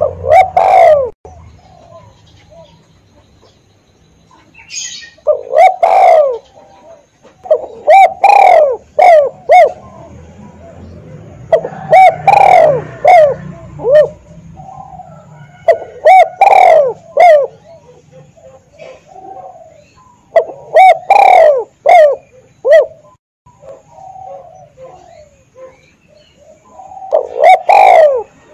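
Spotted dove (tekukur) cooing loudly and close, in repeated phrases of several low, bent coo notes that come every few seconds.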